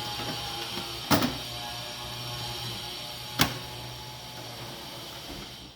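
A few sharp knocks as a computer power supply unit is set into a metal PC case, about a second in and again near the middle, over a steady hiss and low hum that cuts off near the end.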